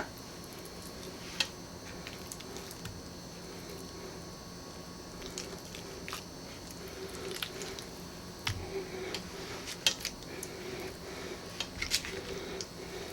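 Raw chicken pieces being laid by hand into a Dutch oven of rice and cheese mixture: soft handling sounds with scattered light clicks and knocks against the pot.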